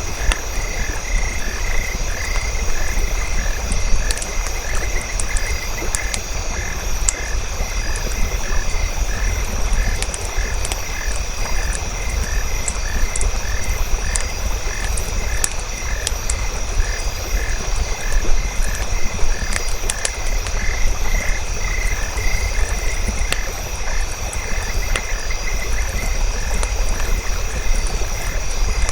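Frogs croaking in a steady repeating rhythm, about two calls a second, over a steady high-pitched drone. Scattered sharp crackles of a campfire sound throughout.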